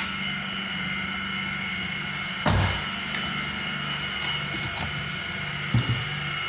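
A steady machine whine over a pulsing low hum, with two thuds, about two and a half seconds in and near the end.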